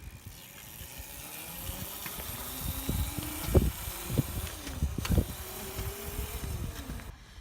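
Small motorcycle engine revving as it pulls away and rides, its pitch rising and falling, with a low rumble and a few heavy thumps.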